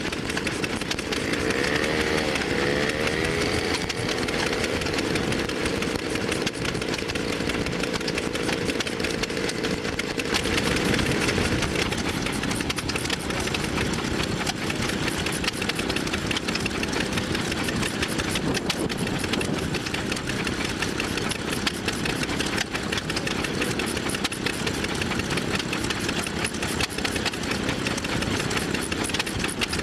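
Vintage engines running steadily with a rapid firing rhythm. A sliding tone comes through in the first few seconds, and the mix of engines shifts about ten seconds in.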